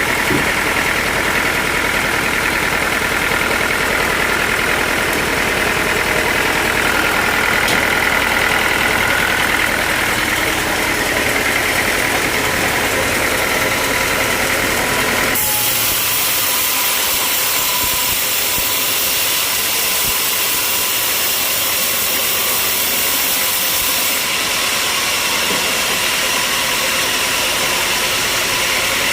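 Sawmill machinery running steadily, an engine-like hum under a hiss. About halfway through the sound changes abruptly: the low rumble drops away and a high hiss takes over.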